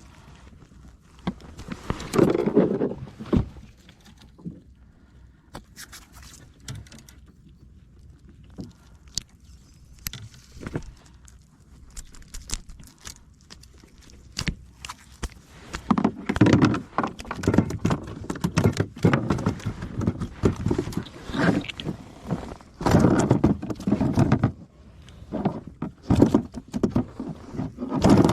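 Irregular knocks, taps and rustling from gear being handled on a fishing kayak. There is a short flurry about two seconds in, and it grows busier over the last dozen seconds.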